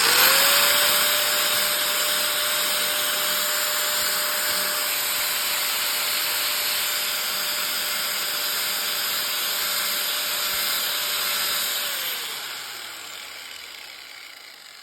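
An electric power tool switched on, its motor spinning up to a steady high-speed whine over heavy hiss. It runs for about twelve seconds, then is released and slowly winds down, the whine falling in pitch as it coasts to a stop.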